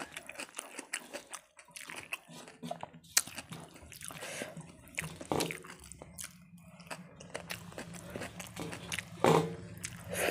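Close-miked eating by hand: chewing with wet mouth clicks and smacks, and a louder sound near the end as she sucks food off her fingers.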